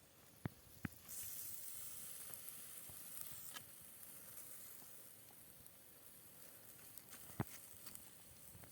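Faint sizzling of food on a hot cooking surface. It starts suddenly about a second in after a couple of light clicks, then slowly dies down; another sharp click comes near the end.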